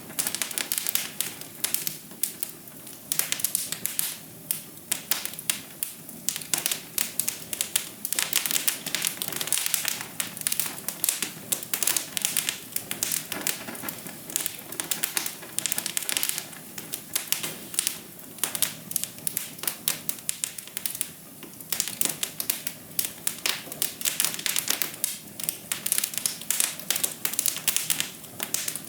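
Wood fire in a fireplace crackling, with dense irregular pops and snaps over a steady low rush of flame.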